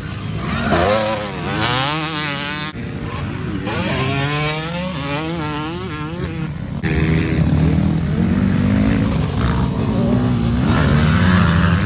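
Motocross dirt bike engine accelerating, its pitch climbing in repeated rises as the rider goes through the gears. About seven seconds in, it changes to a lower, louder, steadier engine note.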